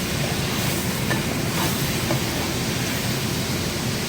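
Strips of bacon sizzling in a frying pan, with a few small crackles, over the steady rush of a kitchen fan.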